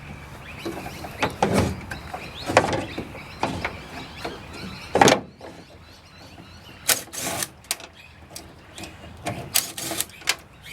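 Irregular metal knocks, clicks and scrapes from tools and parts as the electric window motor is unbolted from the window regulator inside a car door, with the loudest knock about five seconds in.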